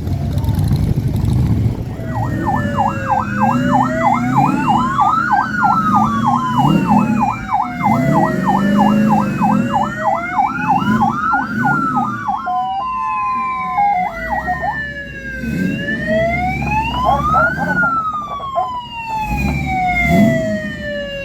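Emergency-vehicle siren starting about two seconds in: a slow wail rising and falling in pitch, with a fast yelp of about three warbles a second over it for the first ten seconds or so.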